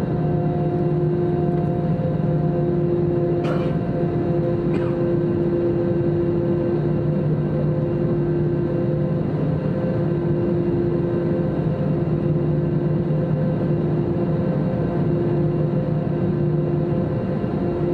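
Airbus A321-200 engines and cabin air heard from inside the passenger cabin: a steady hum with several constant tones over a noise haze, holding level with no build-up, so the engines are at steady low power and the plane is not yet on its takeoff run. Two short clicks about 3.5 and 5 seconds in.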